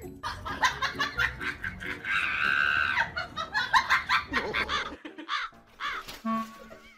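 A bird squawking in rapid, repeated short calls, with one longer drawn-out call about two seconds in.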